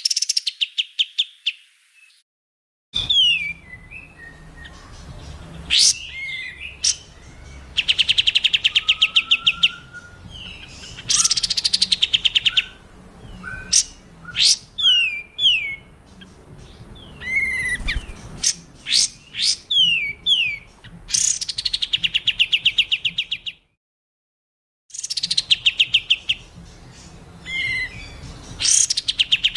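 Songbird song as used for masteran training: fast rattling trills alternating with sharp, falling whistled notes and short sweeps, in loud phrases. The song cuts to silence about two seconds in and again for over a second around the 24-second mark, and a faint low hum lies beneath it.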